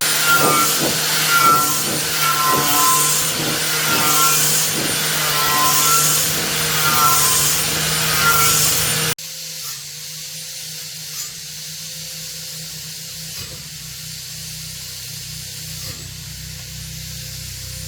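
Power tool work on metal parts: a tool runs with repeated strokes about once a second. About halfway through it cuts off abruptly to a quieter steady hum.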